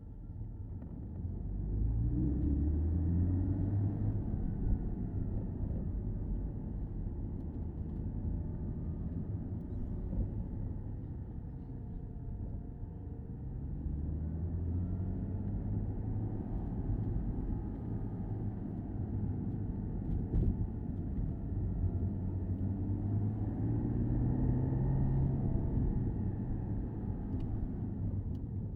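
Porsche Boxster S (987.2) flat-six engine driving along with road and tyre noise, heard from the open-top cabin. The engine note climbs three times as the car accelerates: near the start, about halfway through and near the end.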